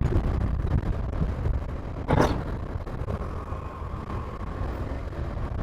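Motorcycle on the move: wind buffeting the microphone over a low engine and road rumble, with a brief louder rush of wind about two seconds in.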